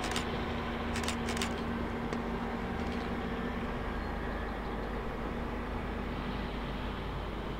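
Departing heritage train: the Tka7 diesel rail truck and its two coaches running steadily as they pull away, slowly fading, with three sharp clicks in the first second and a half.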